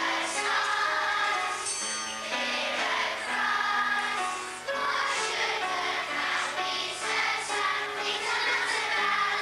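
Music with a choir singing, held notes over a continuous instrumental backing.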